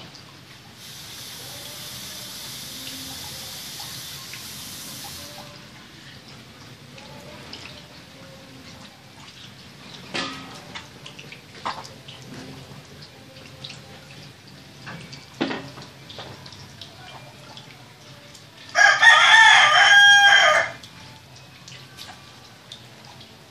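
A rooster crowing once, a single call of about two seconds near the end. A steady high hiss runs for about four seconds near the start, and a few sharp clicks come in between.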